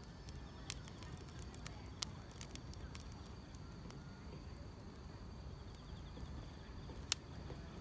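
Wood fire crackling with scattered sharp pops over a low rumble; the loudest pop comes about seven seconds in. Grass insects trill steadily and faintly behind it.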